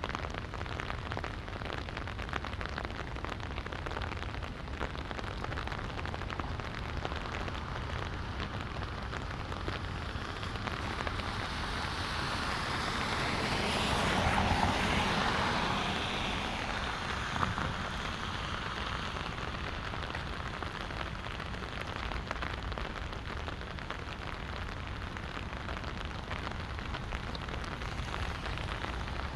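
Light rain falling steadily, pattering on wet ground. A swell of hiss rises and fades about halfway through, and a single sharp tick follows a few seconds later.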